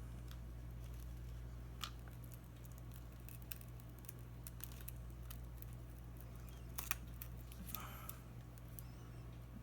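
Scattered small clicks and light scrapes of hand tools working on a tablet's case and glass, with a sharper click about two seconds in and a pair of clicks near the end, over a steady low hum.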